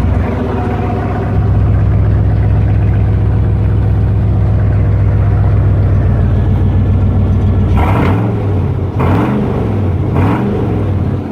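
Pickup truck engine running just after a start, a steady low rumble. From about eight seconds in it is revved up and down a few times. The exhaust is one the owner says doesn't sound the best and probably needs to be redone.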